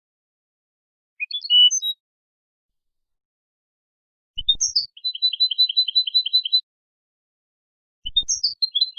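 European goldfinch singing in short separate phrases of high, quick twittering notes, with dead silence between them. One phrase about a second in, a longer one from about four seconds in that runs into a fast trill of two alternating notes, and another starting near the end.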